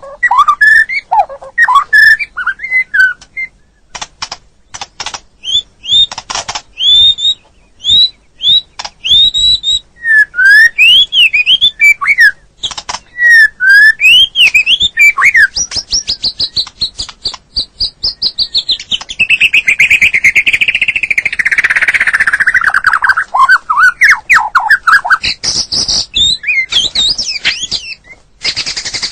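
White-rumped shama (murai batu) song: loud, varied whistled phrases with repeated rising and falling notes, sharp clicks, and a long fast rattling trill in the middle.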